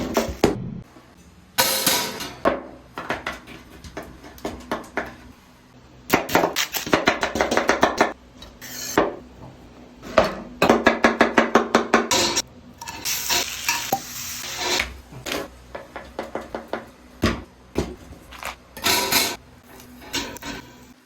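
Cookware and utensils clattering and knocking, with quick runs of sharp strikes, over music.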